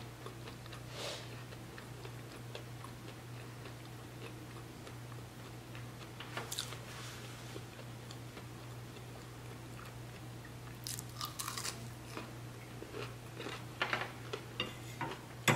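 A person chewing and biting food close to the microphone, with soft crunches. There is a steady low hum, and a few sharper clicks and taps come in the last few seconds.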